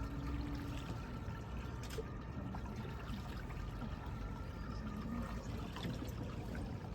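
Water trickling and splashing, a steady sound.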